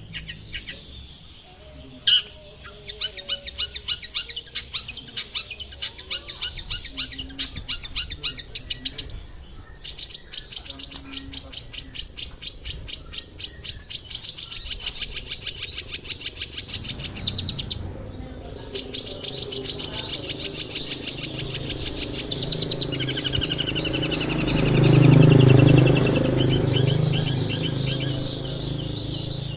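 Long-tailed shrike (cendet) singing long runs of rapid, evenly repeated high chattering notes. A louder, lower sound swells near the end.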